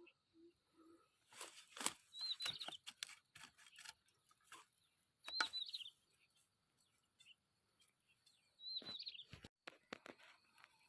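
A small bird giving a short curling chirp three times, a few seconds apart, among scattered clicks and rustles of undergrowth.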